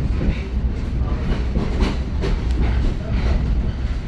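Passenger train rolling along the track: a steady heavy rumble with irregular clicks and knocks of the wheels over the rails.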